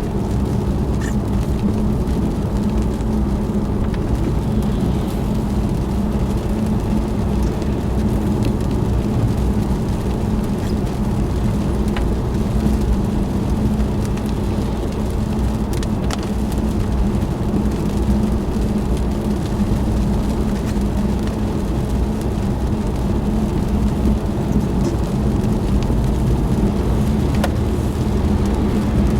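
Car driving on a wet road: steady engine and tyre noise with a constant low hum.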